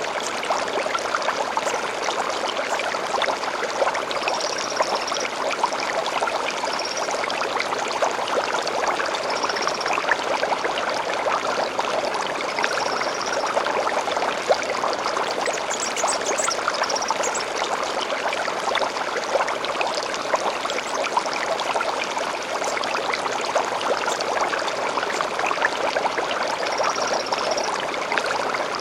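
A small stream running and splashing steadily, with short high bird chirps every few seconds.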